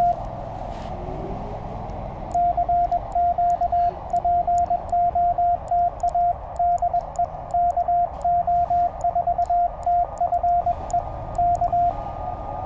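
Morse code from a Penntek TR-35 CW transceiver: a single clear tone keyed in dots and dashes, starting about two seconds in and stopping shortly before the end, over the steady hiss of band noise from the receiver. Near the end a fainter, higher steady tone comes in.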